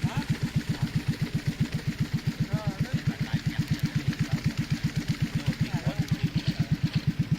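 Boat engine running steadily with an even low thumping, about six to seven beats a second.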